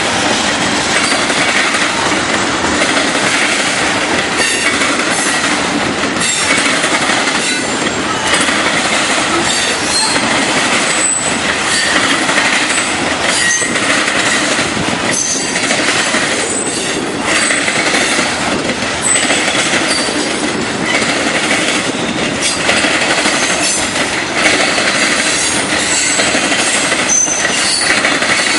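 CSX freight train of covered hopper cars rolling past close by: a loud, steady rumble of steel wheels on rail. Brief high-pitched wheel squeals come and go through it, along with the clicking of wheels over rail joints.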